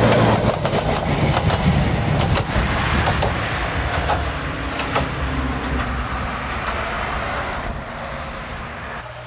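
Narrow-gauge train passing and receding: the 1960-built Mk48 diesel-hydraulic locomotive's engine running with a low steady drone and the single carriage's wheels clicking on the track, fading away steadily.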